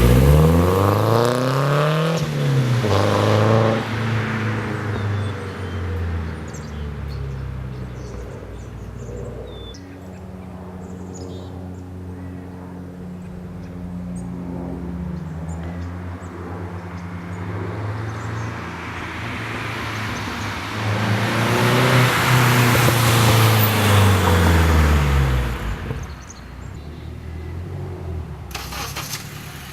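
Nissan 240SX S14's stock KA24DE 2.4-litre four-cylinder engine, breathing through an HKS cat-back exhaust, revving up with a gear change near the start. It then runs at a steady lower pitch before accelerating again and passing loudly about three-quarters of the way through, then dropping away.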